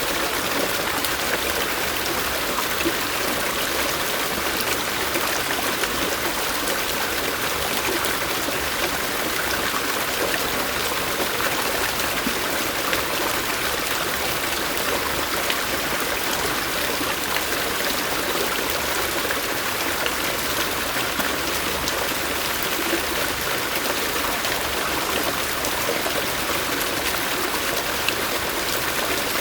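A stream flowing steadily, an even rush of water with small splashes and trickles throughout.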